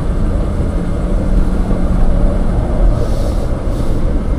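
Off-road vehicle running, a steady low rumble with a faint hum held for a second or two.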